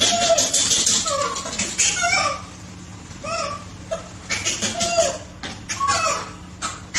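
Monkey calls: a string of short squeaky calls that rise and fall in pitch, mixed with rapid chattering.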